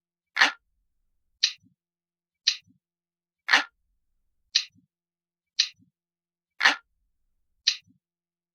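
Analog clock ticking steadily, about one tick a second, with every third tick louder and fuller than the two between. This is a looped ticking track.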